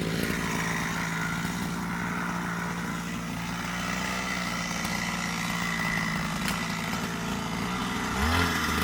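Single-cylinder diesel engine of a công nông farm truck running steadily; about eight seconds in its note shifts and a deeper tone comes in.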